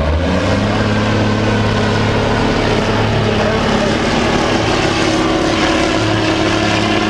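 A pulling truck's engine running flat out under load as it drags the weight sled, a loud, steady drone that holds its pitch.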